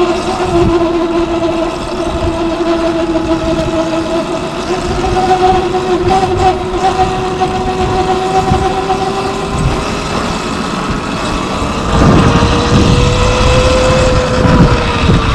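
Sur-Ron Light Bee electric dirt bike riding, its motor whining at a steady pitch that sags a little, then climbs again about twelve seconds in as the bike speeds up and eases off near the end. An uneven low rumble runs underneath.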